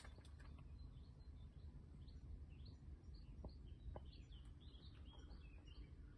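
Near silence: a faint low background rumble, with a few faint bird chirps about halfway through.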